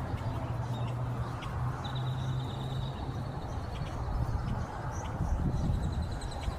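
Grackles calling: thin, high drawn-out notes over steady outdoor noise, with a low hum underneath that stops about two and a half seconds in.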